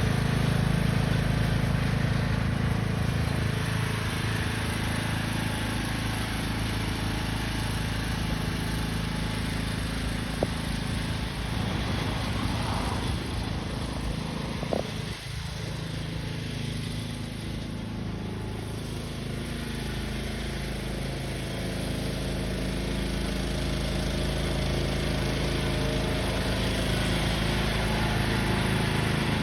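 Tractor engine running steadily. It grows somewhat fainter through the middle and louder again toward the end, with a single short click about fifteen seconds in.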